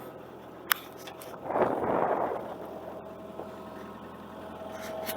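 Excavator engine running steadily at a high idle. There is a sharp click under a second in and a short rushing noise around two seconds in.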